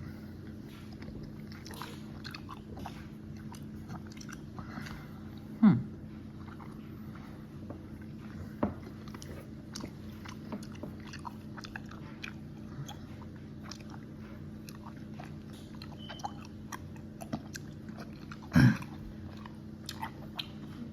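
Close-up chewing of Haribo gummy candy, with many small wet mouth clicks over a steady low hum. Two short louder sounds whose pitch falls come about 6 seconds in and near the end.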